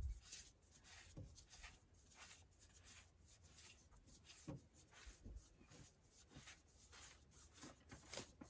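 Near silence with faint, scattered small clicks and rustles of handling.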